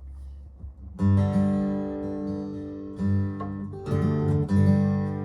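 Acoustic guitar in open G tuning strumming chords. One chord sounds about a second in and is left ringing, another comes about two seconds later, then a few quicker strums follow.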